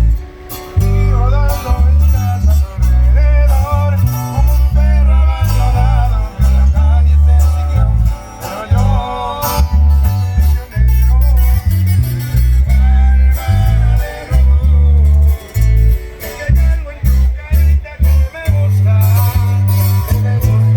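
Live corrido music: a band with guitar and a male-range singing voice over loud, deep bass notes that change beat by beat.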